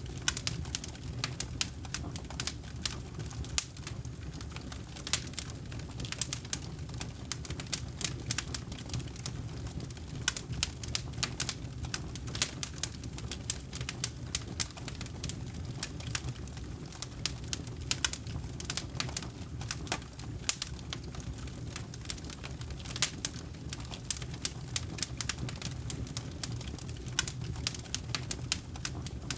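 Campfire burning: burning wood crackling in many sharp snaps, several a second, over a steady low rumble of the flames.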